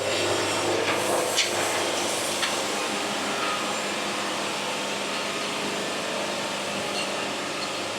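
Band sawmill running with a steady machine hum, with a few light knocks in the first couple of seconds.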